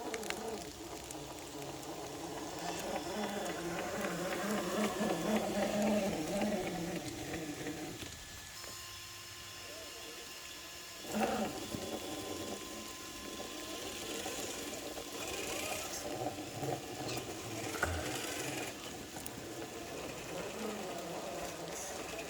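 Axial RC crawler's electric motor and geared drivetrain whining, its pitch rising and falling with the throttle. It goes quiet for about three seconds in the middle, then picks up again more softly.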